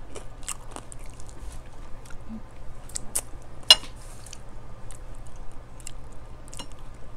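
People chewing food close to the microphone, with many small mouth and food clicks while eating with their hands, and one sharper click a little past halfway.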